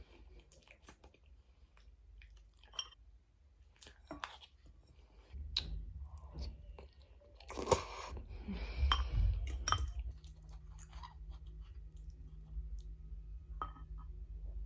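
Close-miked chewing and wet mouth clicks of someone eating spaghetti, loudest in a cluster around the middle. A few light utensil clinks are mixed in. A steady low hum joins about five seconds in.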